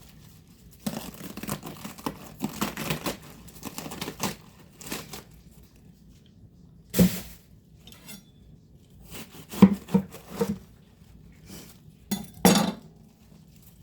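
Lettuce being readied for chopping: a few seconds of crinkling and tearing, then several separate sharp knocks and clinks of kitchenware, the loudest about two-thirds of the way through and near the end.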